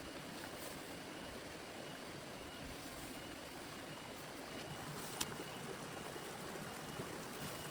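Heavy rain falling steadily, an even rushing hiss, with a single sharp tap about five seconds in.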